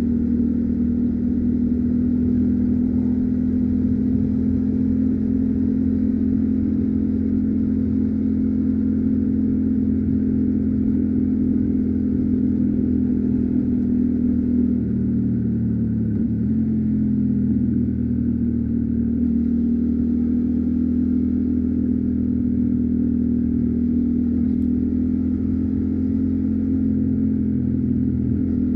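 Yamaha Ténéré 700's parallel-twin engine, on its stock exhaust, running at a steady cruising speed, with a brief dip and recovery in engine pitch about halfway through.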